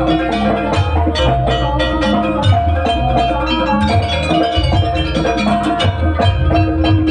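Live Javanese jaranan music: drums and pitched metallic percussion playing a steady rhythm over sustained tones and a moving bass line.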